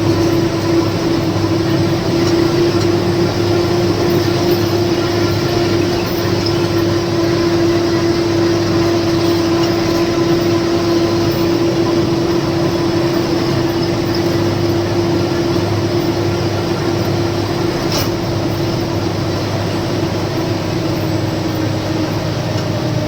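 Lorry's diesel engine running steadily in gear on a downhill, holding the truck back by engine braking, heard from inside the cab: a low drone with a steady whine over it. One short click about 18 seconds in.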